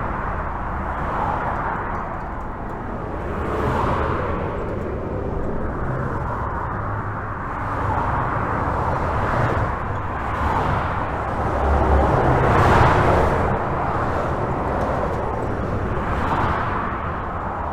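Continuous highway traffic heard from under a bridge: a steady rumble and tyre noise, with individual vehicles swelling past every few seconds, the loudest about twelve to thirteen seconds in.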